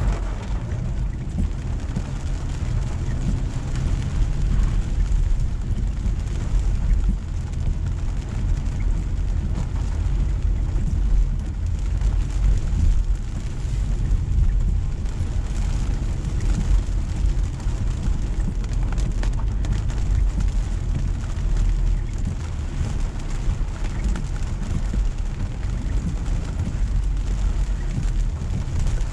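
Car driving through steady heavy rain: a continuous low road-and-engine rumble under an even hiss of rain on the car and tyre spray.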